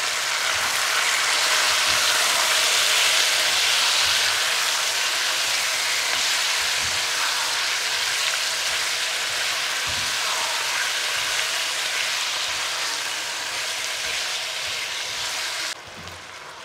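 Freshly added diced raw chicken sizzling in hot olive oil and ginger-garlic paste in a frying pan: a steady loud hiss of frying. The sizzle drops suddenly to a quieter level near the end.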